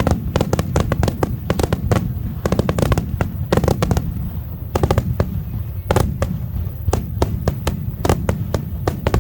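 Aerial fireworks shells bursting in a dense barrage: sharp cracks several times a second over a continuous low rumble of booms.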